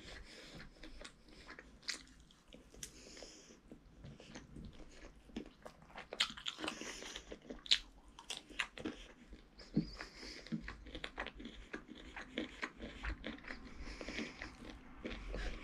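A child chewing and biting his food, eating rice by hand and biting meat off a chicken drumstick: a continual run of short, uneven mouth clicks and smacks.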